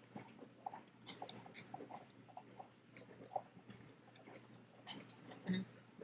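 Faint, scattered clicks and soft sticky squelches of sourdough starter being scraped and stirred with a utensil in a glass jar.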